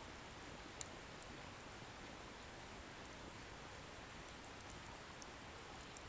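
Wood bonfire burning with a faint steady hiss and a few sharp crackles of firewood popping, the loudest a little under a second in.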